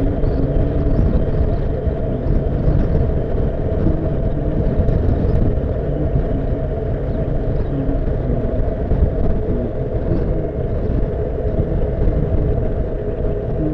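Honda CBF motorcycle on the move: engine running under a steady heavy rumble of wind on the camera microphone, with the engine note wavering slightly.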